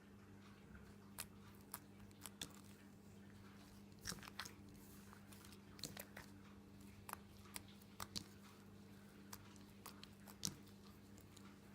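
Avalanche slime being handled with the hands, giving irregular small clicks, pops and crackles, a few a second in places, over a faint steady hum.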